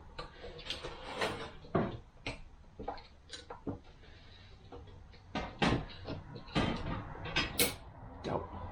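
Metal parts of a 42RE automatic transmission knocking and clinking as they are handled and set down on a workbench: irregular short knocks, busier in the second half, over a steady low hum.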